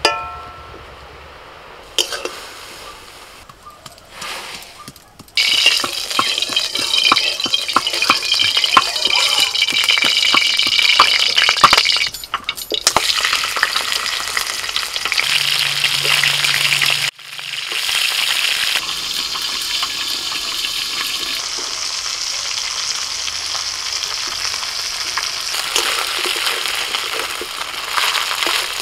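Hot oil sizzling in a kadai as food fries, with a spatula scraping and tapping against the pan. The frying comes in loud about five seconds in.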